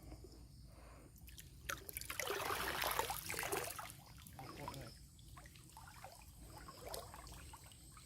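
Water splashing and trickling, loudest in a burst between about two and four seconds in, then broken small splashes and drips.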